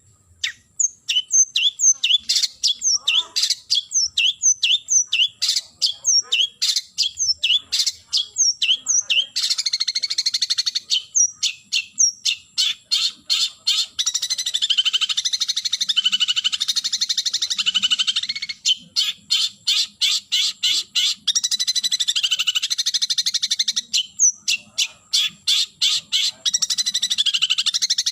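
Long-tailed shrike (cendet) giving its challenge call to a rival: loud, sharp, down-slurred notes about three a second, alternating with long stretches of fast, harsh chattering.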